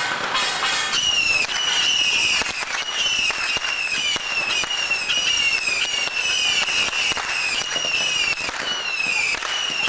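Firecrackers crackling in a dense run, with a string of short falling whistles repeating about every two-thirds of a second from about a second in.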